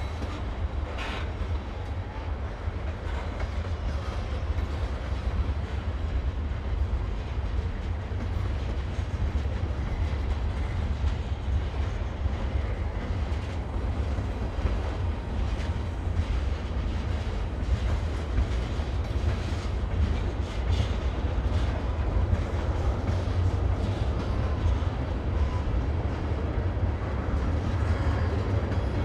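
Freight train rolling past: a steady low rumble with faint clatter of wheels on the rails.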